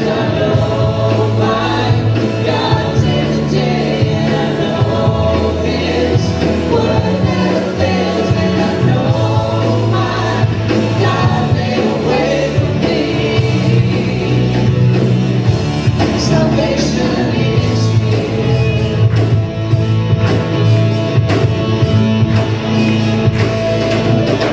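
A live church worship band plays a song with sung vocals, over a steady bass line and drum hits.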